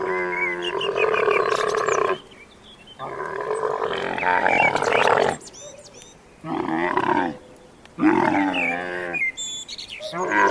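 A farm animal calling repeatedly: five long, wavering calls of one to two seconds each with short pauses between them.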